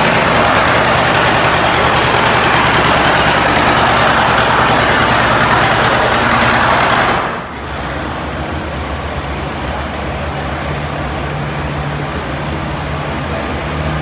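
Antique pulling tractor's engine running at full throttle under load. About seven seconds in the throttle is cut suddenly and the engine drops to a steady idle.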